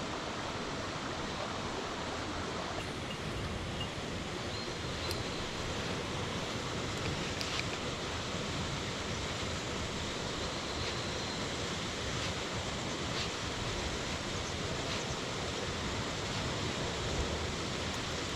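Steady rush of mountain stream water, an even hiss with a few faint clicks.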